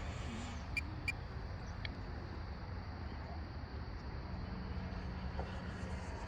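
Faint, steady sound of an electric ducted-fan RC jet in flight at a distance, with a low hum coming in about four seconds in. Two small clicks about a second in.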